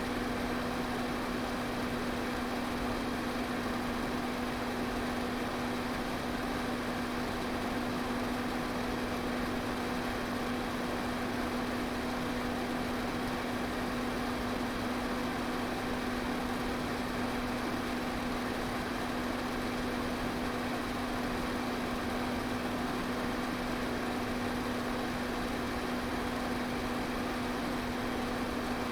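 Electric fan running at a constant speed: a steady rush of moving air with an unchanging motor hum beneath it.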